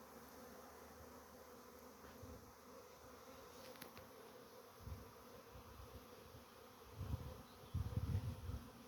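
Bees buzzing in a faint, steady hum, with a few low thumps near the end.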